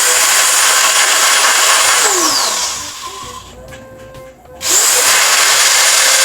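Firo angle grinder's electric motor run with no load, a high whine. About two seconds in it is switched off and winds down with a falling whine, then near five seconds it is switched on again and spins back up.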